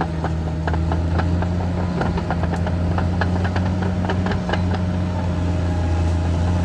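Caterpillar D6R XL crawler bulldozer's diesel engine running with a steady low drone, with frequent irregular metallic clanks and clicks over it.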